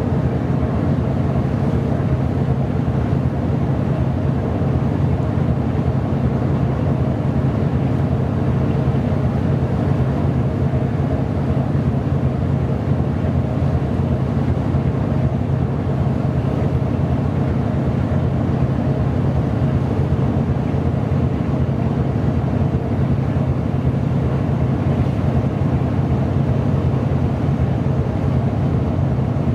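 Steady low drone of a ship's diesel engine and machinery, heard from aboard the vessel, unchanging throughout.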